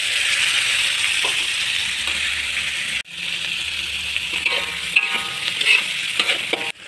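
Sliced bamboo shoots with beef and prawns sizzling in hot oil in a wok: a steady frying hiss that breaks off for a moment about three seconds in, then carries on.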